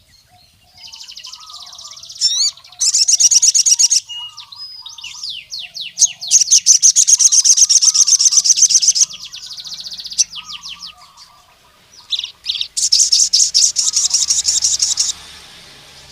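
Male sogon sunbird singing: rapid, high-pitched chattering trills broken by runs of quick rising notes, with the loudest trill phrases in the middle and near the end.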